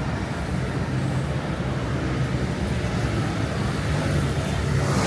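Street traffic: motor vehicles running and passing close by, with a steady low engine hum, and a brief sharper hiss right at the end.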